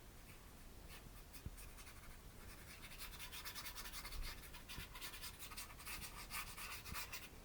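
Paintbrush scrubbing and dabbing acrylic paint onto canvas in a quick run of short, faint scratchy strokes, which start about a second in and come thicker from about three seconds in.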